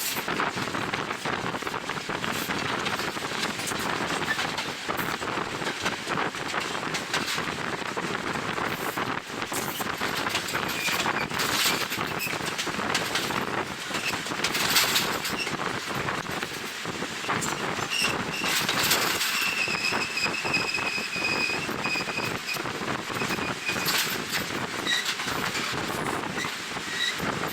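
Passenger train running at speed: a steady rush of wind on the microphone with wheel-and-rail rolling noise and clatter. A thin high squeal rises above it for a few seconds past the middle.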